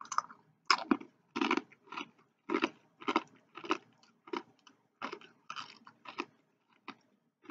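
A person chewing crunchy food with the mouth close to the microphone: a string of crisp crunches, about two a second, thinning out near the end.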